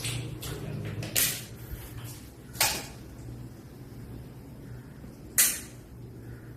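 A handful of sharp clicks or knocks at uneven intervals, the loudest three at about one, two and a half and five and a half seconds in, over a low steady hum.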